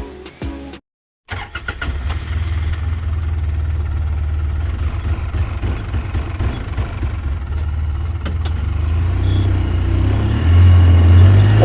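Tractor engine running with a steady low rumble after a brief cut to silence about a second in. Near the end it gets louder and slightly higher in pitch as it revs up.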